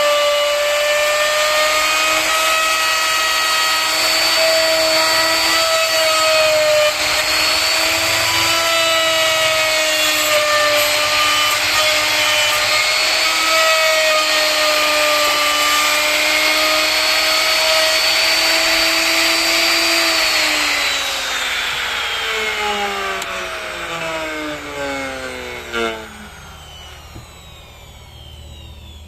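Electric woodworking power tool running at speed with the hiss of cutting wood, its motor pitch wavering slightly under load. About two-thirds of the way through it is switched off and winds down, the whine falling in pitch and fading out.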